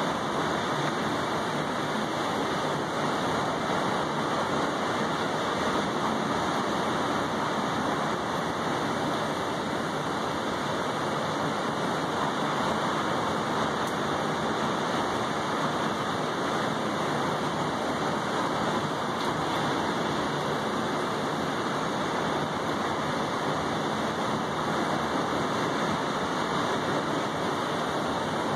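Steady rain falling on a balcony and its wet tabletop, a constant even hiss with no let-up.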